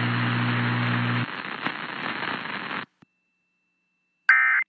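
Radio hiss and crackle over a steady low hum. The hum stops about a second in, and the hiss cuts off abruptly at about three seconds. After a short silence, near the end, comes a brief burst of warbling data tones: the Emergency Alert System's SAME end-of-message code that closes the warning.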